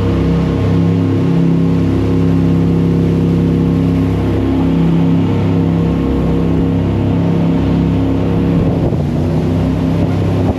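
Jet boat engine running hard at speed, a loud steady drone over rushing noise; its note shifts near the end as the engine speed changes.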